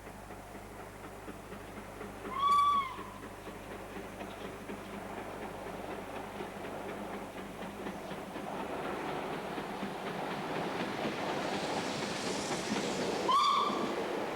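LNER K4 2-6-0 steam locomotive sounding two short whistle blasts about eleven seconds apart, while the train's running noise grows steadily louder as it approaches.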